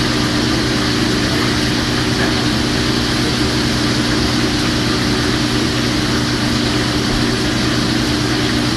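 Kitchen exhaust fan running with a steady, unbroken drone and a constant low hum.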